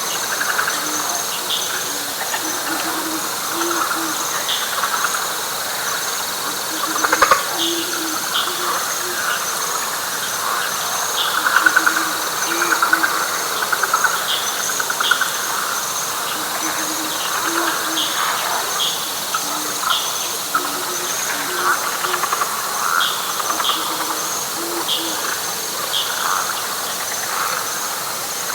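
Night chorus of frogs and insects in a wet pine flatwoods: a steady high insect trill with a pulsing buzz above it, a dense chattering frog chorus, short low hooting notes repeated in small groups, and scattered short chirps. A single sharp click comes about seven seconds in.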